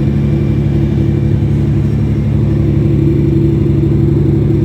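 A boat's engine running steadily: a constant low drone.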